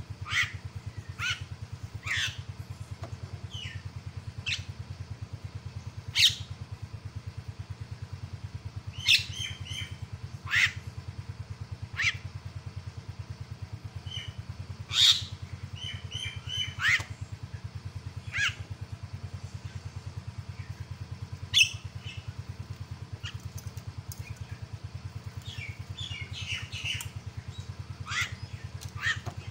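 Javan myna (jalak kebo) calling: short, sharp squawks and whistled notes, spaced irregularly a second or two apart, over a steady low hum.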